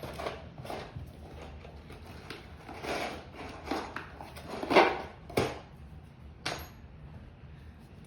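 Irregular knocks, taps and clatter of tools and wood being handled during repairs to a loose wooden subfloor, with the loudest knocks about five seconds in.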